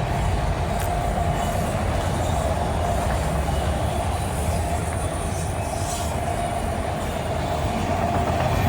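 Freight train cars rolling past at steady speed: a continuous rumble of steel wheels on the rails with a steady high tone running through it.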